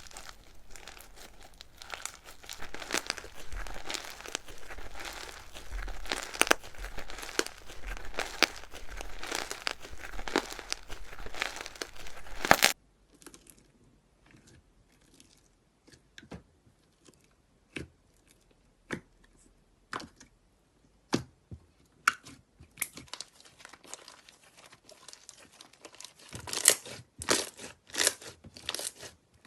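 Slime being worked by hand close to the microphone: for about the first half, dense crunchy crackling full of small clicks. After a sudden cut, sparse sharp pops and clicks, growing busier near the end.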